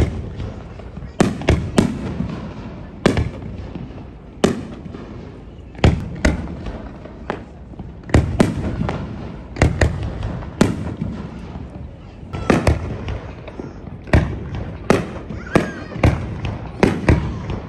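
Fireworks display: aerial shells bursting one after another, about twenty sharp bangs at irregular intervals of roughly half a second to a second and a half, each followed by an echoing rumble.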